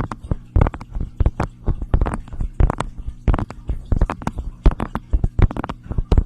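Close-miked ASMR tapping and clicking: quick, irregular sharp taps, several a second, over a faint steady low hum.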